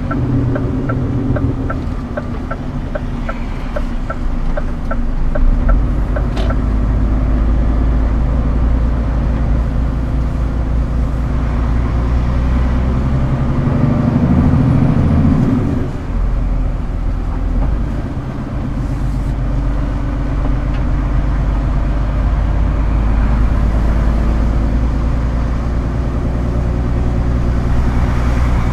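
Scania R410 truck's diesel engine running steadily, its low drone shifting in pitch and level about halfway through, as under changing throttle. For the first six seconds or so, an even ticking at about two or three ticks a second sounds over it.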